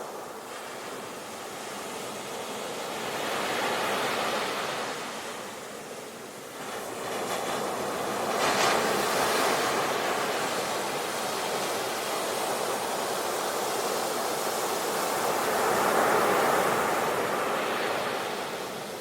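Sea waves breaking and washing back in slow surges, with one swell a few seconds in, the loudest crash near the middle, and another swell near the end.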